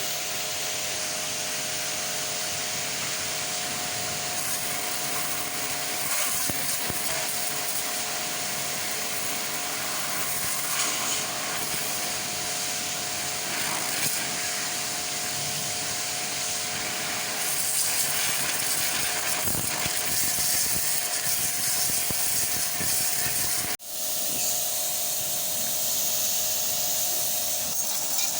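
Car wash equipment running: a steady hiss of spraying water over a constant motor hum. The spray gets louder about two-thirds of the way through and briefly cuts out near the end.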